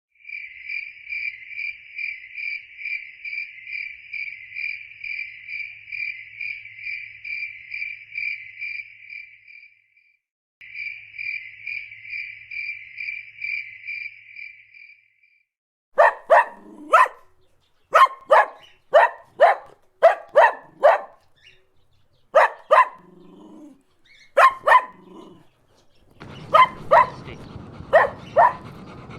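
A high, single-pitched chirping, evenly pulsed at about two pulses a second, runs for about fifteen seconds with a short break. After that a dog barks repeatedly, in quick pairs and short runs.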